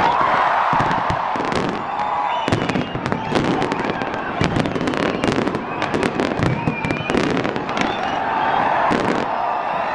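Fireworks going off in rapid, overlapping bangs and crackles, many sharp reports a second with no break.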